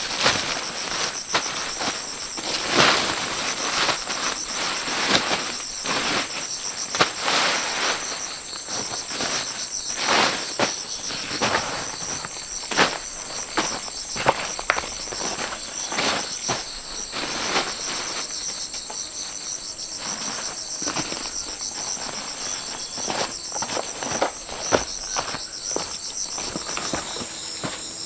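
Insects, crickets or similar, trilling steadily in a high, pulsing chorus, with irregular sharp knocks and clicks scattered over it.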